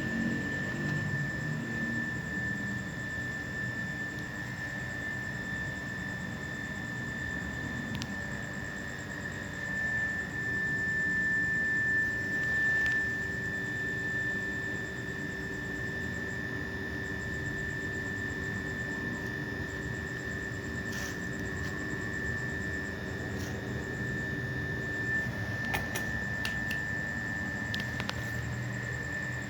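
A steady machine hum with a constant high-pitched whine, and a few faint clicks near the end.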